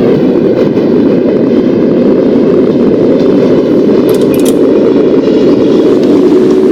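Subway train running along the tracks: a loud, steady rumble of wheels on rail, with a few brief high clicks about four seconds in.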